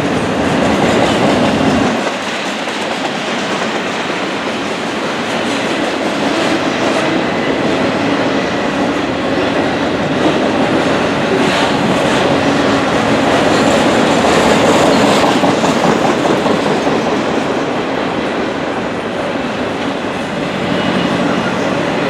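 BNSF intermodal freight train rolling past: a steady rush of steel wheels on rail with a clickety-clack over the rail joints. The deepest rumble drops away about two seconds in.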